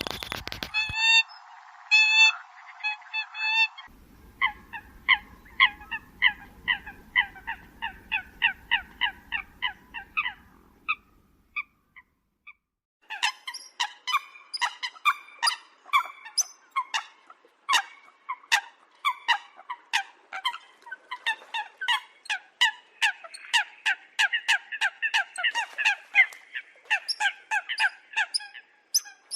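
Eurasian coots calling: rapid series of short, nasal honking calls, about three a second, as played from a bird-lure recording. The track cuts abruptly twice early on and falls silent briefly about 12 seconds in, then resumes with denser calls and sharp clicks.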